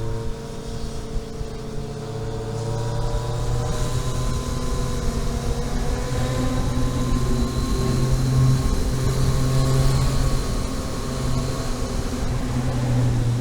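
Vehicle engine running under load while driving, its pitch and loudness climbing slowly for about ten seconds, then easing off a little near the end.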